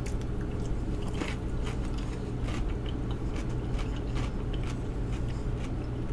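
A person chewing a mouthful of food close to the microphone, with scattered small wet clicks and mouth sounds over a steady low hum.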